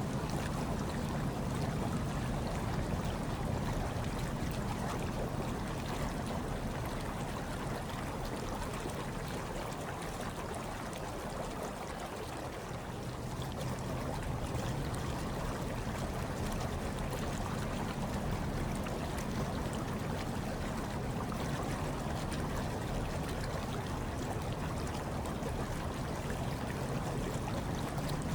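Hot tub water running steadily, dipping slightly for a moment about twelve seconds in.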